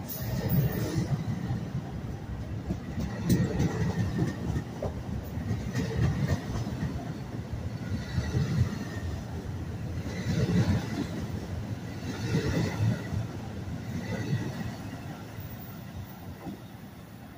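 NJ Transit multilevel commuter coaches rolling past as the train pulls out of the station, wheels rumbling and clacking over the rails. The sound swells about every two seconds as each car goes by, then fades near the end as the rear cab car draws away.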